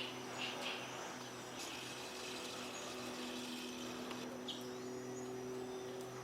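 Outdoor nature ambience: insects calling steadily with a few short bird chirps, one about half a second in and another about four and a half seconds in, over a low steady hum.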